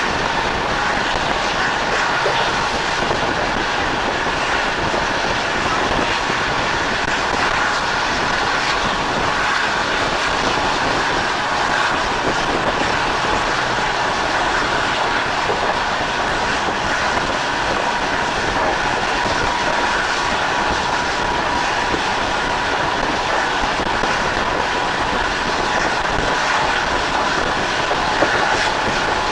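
Moving train: the steady rolling noise of wheels running on the rails.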